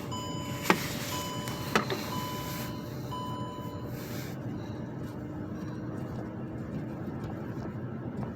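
Electronic warning beeps, one pitched tone about once a second, four times, then stopping, with two sharp clicks among the first beeps. A steady low hum runs underneath.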